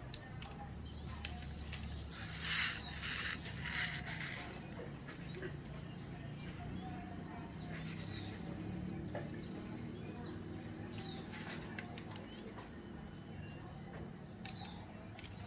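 Birds chirping in many short calls, with a brief flurry of wing flapping about two and a half to four seconds in.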